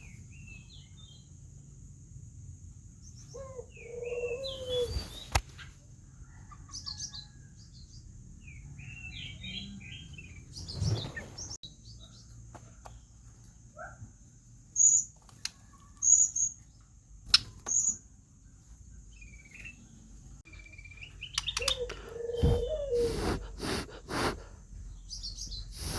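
Young white-rumped shama giving short, scattered chirps and twitters, with a few sharper, louder high notes in the middle. Occasional thumps and clicks are heard.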